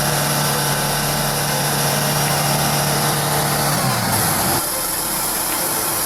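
A semi-truck's diesel engine running steadily under load on a climb, its note dropping and turning rougher about four seconds in.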